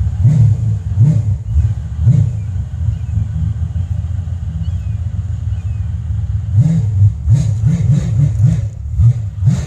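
Car engine running with a deep, low rumble, blipped with short revs a few times early on, steadier through the middle, then revved in quick repeated blips near the end.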